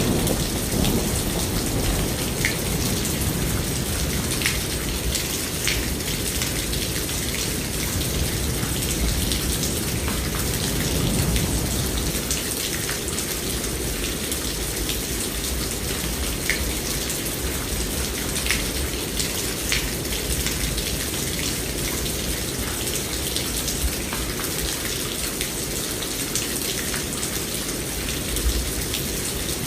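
Steady, heavy rainfall with individual drops ticking and splashing. A low rumble of thunder through the first dozen seconds eases off partway through.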